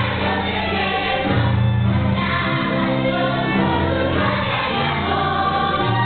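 Music with a choir singing slow, held chords over a steady bass line, the chords changing every second or so.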